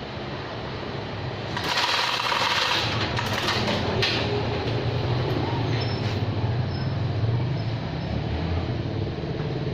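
An engine running steadily at a low speed. About two seconds in, a loud hiss cuts in over it and stops about two seconds later.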